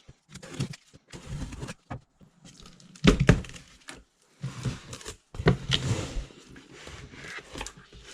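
Cardboard box being opened and handled: flaps and cardboard packing rustling and scraping, with two dull thunks about three and five and a half seconds in.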